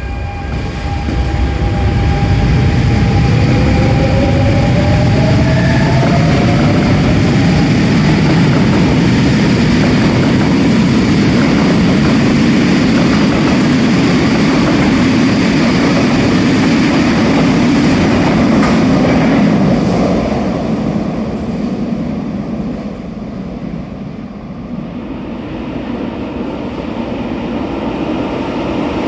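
RER A electric multiple-unit train running through the station: its motor whine rises in pitch over the first several seconds as it gathers speed, with a loud rumble of wheels on rail that fades about twenty seconds in. The rumble builds again near the end.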